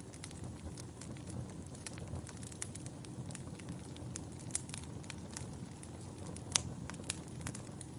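Wood fire burning in a fireplace: logs crackling with irregular sharp pops over a steady low rumble of flame, one pop louder than the rest about two-thirds of the way in.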